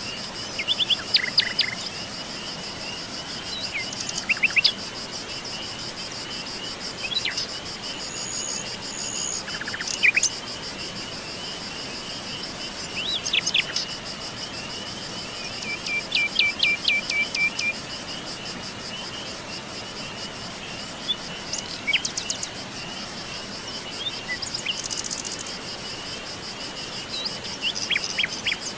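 Forest ambience: birds chirping and calling in short scattered phrases, including one quick run of repeated notes about midway, over a continuous high-pitched insect trill and a steady background hiss.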